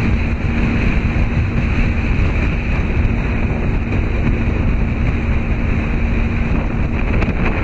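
Wind buffeting the microphone over a steady low hum, such as a boat engine's; the hum stops about seven seconds in.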